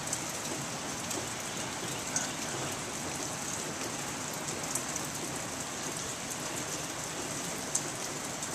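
Steady rain falling, with a few sharp ticks of drops, over the roar of a rain-swollen stream.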